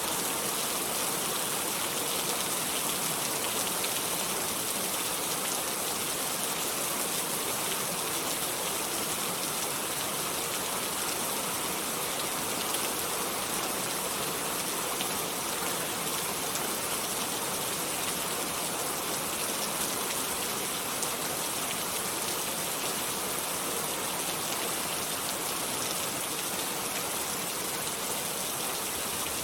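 Steady rain: a dense, even hiss of falling drops at a constant level, with no thunder.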